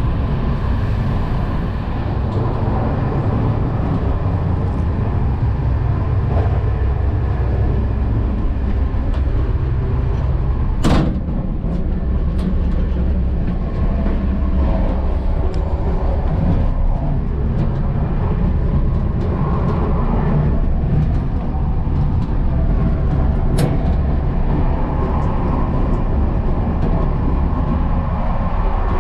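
Old CP Intercidades passenger train running, heard inside the carriage as a steady low rumble and rattle. A loud sharp knock comes about eleven seconds in, and a fainter click later.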